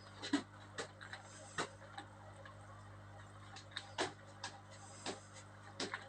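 Light, irregular clicks and taps, about a dozen scattered through a few seconds, over a faint steady low hum.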